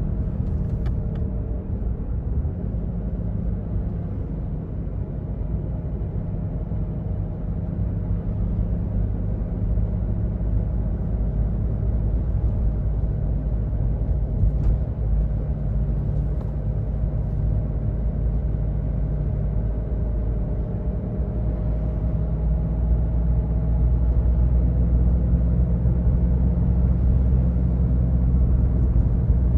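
2005 Toyota Yaris diesel being driven: a steady low engine drone with tyre and road noise, growing louder about two-thirds of the way through.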